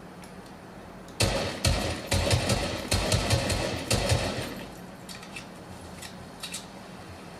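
Video game combat sound effects: a quick run of loud bangs starting about a second in and lasting about three seconds, over a steady low hum, followed by a few fainter clicks.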